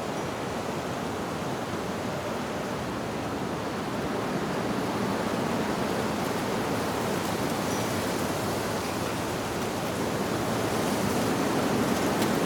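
Wind rushing steadily through tree leaves, growing gradually louder toward the end, with a single faint wind-chime note about halfway through.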